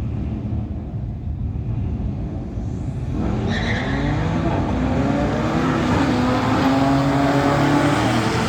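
A car engine idles with a low rumble. About three seconds in it launches, revving and accelerating hard, and its pitch climbs steadily as it pulls away.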